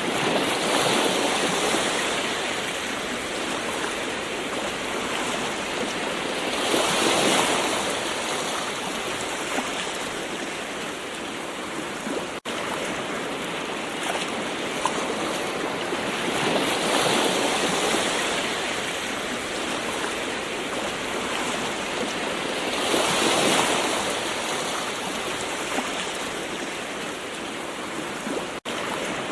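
Gentle ocean waves: a steady wash of surf that swells and recedes every several seconds, with two momentary dropouts in the sound, about twelve seconds in and near the end.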